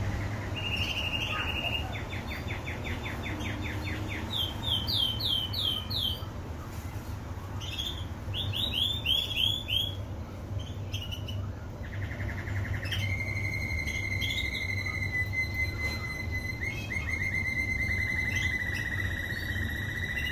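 Domestic canary singing: fast trills and runs of repeated swooping notes, then a long rolling trill held on one pitch through the second half, over a steady low hum.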